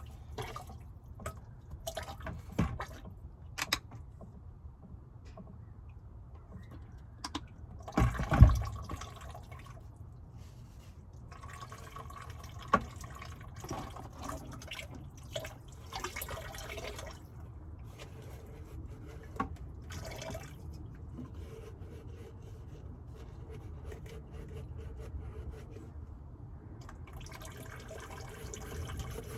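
Dishes being washed by hand: water trickling and dripping, with scattered clinks and knocks of dishware, the loudest a heavy thump about eight seconds in.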